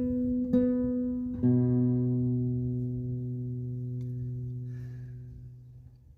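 Guitar music: a couple of plucked notes, then a chord about a second and a half in that rings on and slowly fades away.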